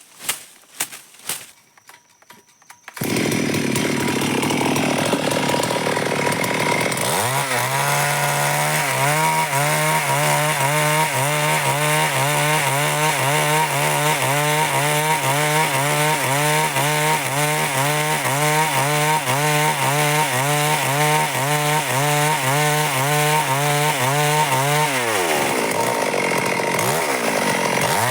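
Stihl MS382 two-stroke chainsaw cutting wood. A few knocks come first, then the saw comes in suddenly and loud about three seconds in and runs hard, its pitch wavering in a regular rhythm as it cuts. Near the end the engine speed drops and then picks up again.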